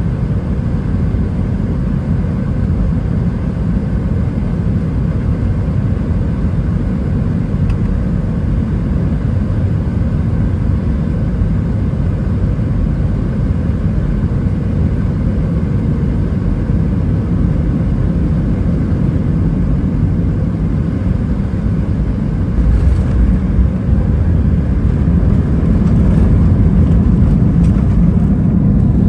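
Airbus A320-212 cabin noise from the CFM56 engines and airflow: a steady low rumble with faint steady tones above it. About three-quarters of the way through it steps up in loudness with a faint knock, and it grows louder again near the end.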